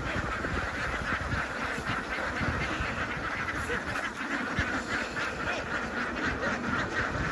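A large flock of domestic ducks quacking together: a dense, continuous chorus of many overlapping calls, with scattered low thuds underneath.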